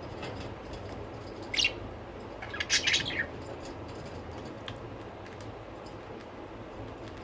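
Budgerigar chirping: a short falling call about one and a half seconds in, then a louder burst of quick chirps around three seconds in.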